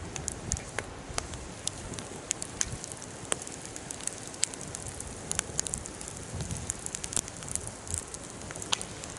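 Bonfire crackling: frequent irregular sharp pops and snaps over a steady low hiss of burning.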